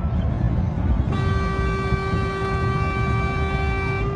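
A vehicle horn sounding one long, steady held note, starting about a second in, over a constant low rumble.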